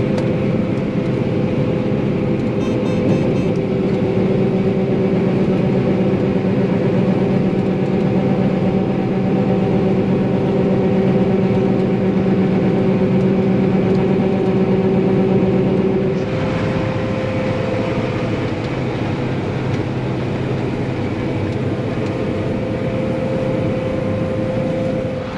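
Heavy harvest machinery running steadily, a deep diesel drone with several steady tones. About 16 s in, part of the drone drops away and it gets a little quieter.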